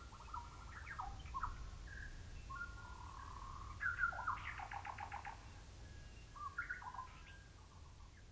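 Birds calling: short chirps and whistled notes, with a quick rattling run of notes about four seconds in. A faint low rumble runs underneath.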